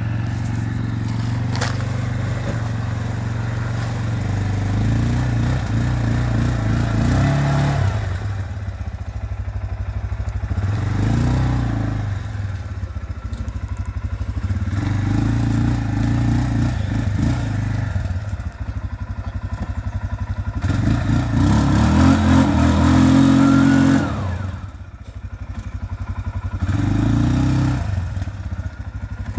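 Russian Mechanics RM 650 ATV engine running under way, the throttle opening and closing again and again, with the engine note rising under acceleration about three-quarters of the way through before dropping off.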